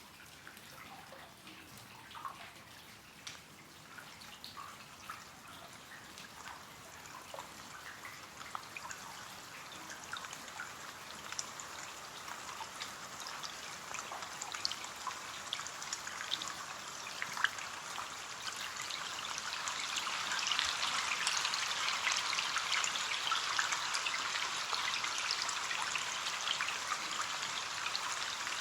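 Rain on a window: scattered separate drops tapping at first, building steadily into a denser, louder rain hiss over the second half.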